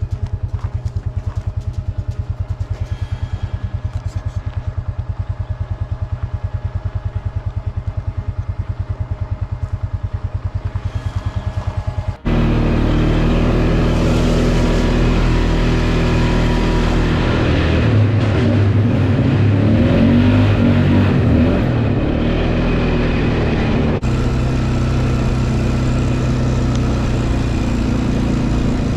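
A small off-road vehicle's engine idling with a steady, rapid low pulse. About twelve seconds in it abruptly gives way to the engine running under way, louder, its pitch rising and falling with the throttle, with rushing noise over it.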